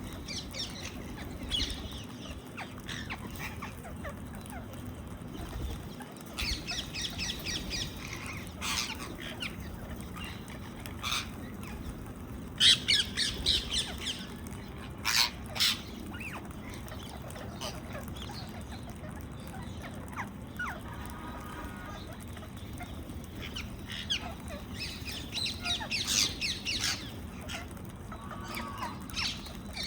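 Indian ringneck (rose-ringed) parakeets calling in repeated bursts of rapid, high calls, loudest about halfway through and again near the end, over a steady low background noise.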